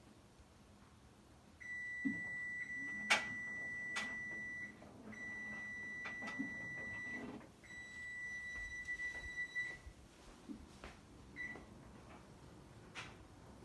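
Electronic beeper on a Whirlpool front-load washer's control panel: three long steady high beeps of two to three seconds each, with short gaps between them, then one short beep. Two sharp clicks sound during the first beep.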